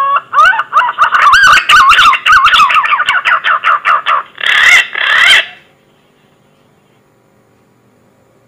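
Green pigeon (punai) lure call: a rising whistle runs straight into a quick string of warbling, wavering whistled notes, then two harsher notes about four and a half and five seconds in. It stops about six seconds in.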